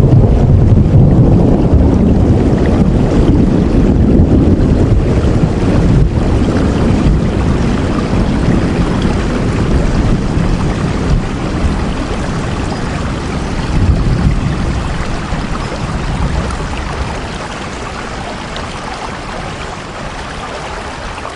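Steady heavy rain with a deep wind rumble underneath, easing a little in the last few seconds.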